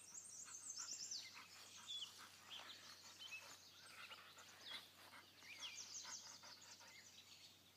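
Faint chirping of birds: many short, high calls, some sweeping down in pitch, scattered throughout.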